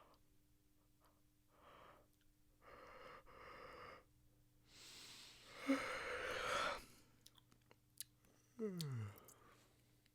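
A person yawning: soft breaths, then a long, breathy yawning inhale about five seconds in, and near the end a short voiced exhale that slides down in pitch. A few small mouth clicks come between them.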